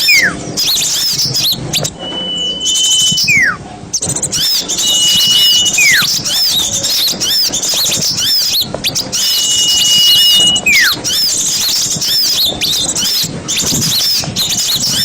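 A bird-lure recording of a crowd of small songbirds chattering, with quick high chirps packed close together. Over them, four times, a long even whistle holds its pitch and then drops steeply in a falling slur.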